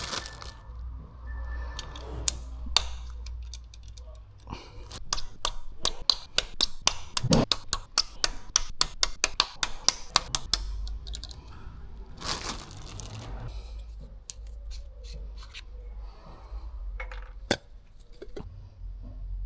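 Plastic packaging being torn open and handled while new rocker arms are unpacked: a run of sharp clicks and crackles, then a longer tearing rustle about twelve seconds in, with a few more clicks near the end.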